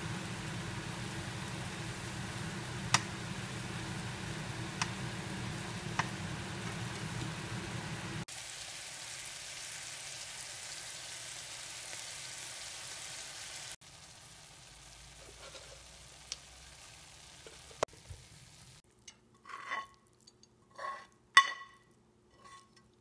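Chili paste sizzling as it is stir-fried in coconut oil in a pan, with a few sharp clicks of the metal spatula against the pan; the sizzle gets quieter after about eight seconds and again after about fourteen. Near the end come several short ringing tones.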